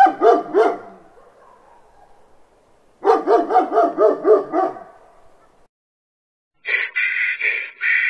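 Dog barking: three sharp barks, then after a pause a quick run of about seven barks. Near the end a different animal's harsh, rasping call starts.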